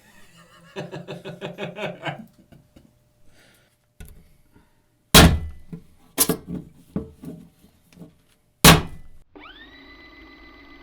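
A series of hard thunks, three of them loud and sharp, about five, six and nine seconds in, with lighter knocks between them: a blade taking heavy blows during a knife torture test. Near the end a steady tone with a quickly rising start comes in.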